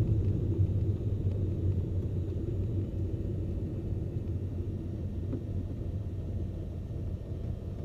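Cessna P210N's turbocharged six-cylinder engine and propeller running at low taxi power, a steady low drone that eases slightly about three seconds in.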